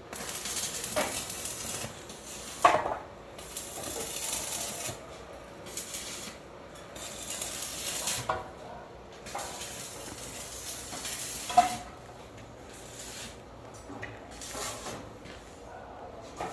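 Electric arc welding on a steel frame: crackling, sizzling runs of a second or two, stopping and starting several times. A few sharp metallic clanks ring out between the runs, the loudest about a quarter of the way in and again about two-thirds through.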